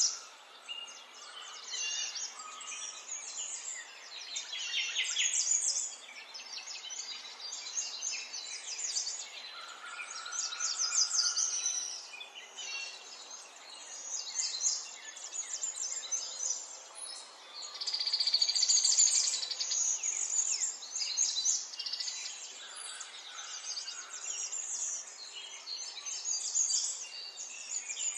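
Songbirds chirping and trilling in quick high runs, one phrase after another.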